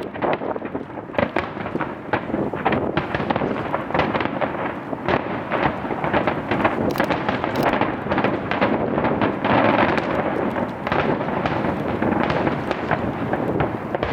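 Star Mine fireworks barrage: many aerial shells bursting in quick, overlapping succession, a dense continuous run of bangs and crackles.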